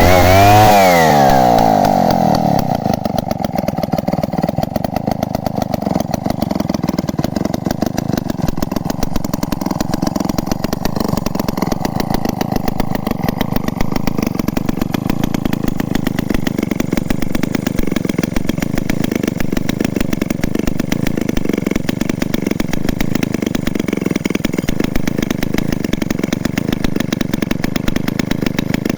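Vintage Solo Rex two-stroke chainsaw engine coming down from a rev, its pitch falling quickly in the first two seconds, then running at a steady idle.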